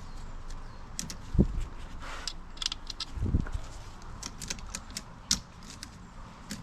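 Metal tools and small engine parts clinking and tapping as they are handled and set down, with two dull thumps about one and three seconds in.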